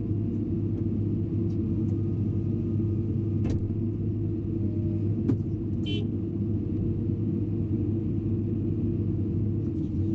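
Hydraulic excavator's diesel engine running steadily, with a low hum. Two sharp knocks, about three and a half and five seconds in, are followed by a brief high squeak.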